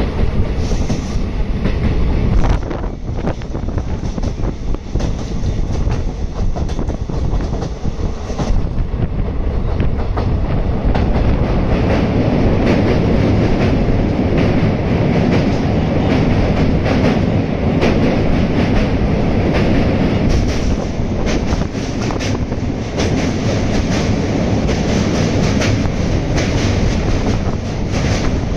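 A train's wheels running fast on the rails, heard from the coach doorway: a steady clatter with rapid clicks over the rail joints. About ten seconds in it grows louder and deeper as the coach runs onto a steel truss bridge.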